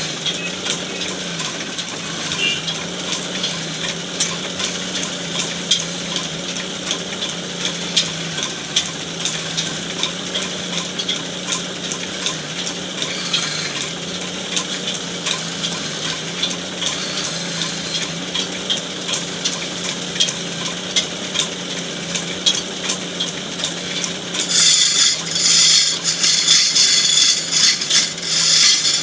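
A woodworking machine's motor running with a steady hum, under many small irregular clicks and ticks. About 25 seconds in, a tool starts rasping loudly against the wood, a rough scraping that is louder than the hum.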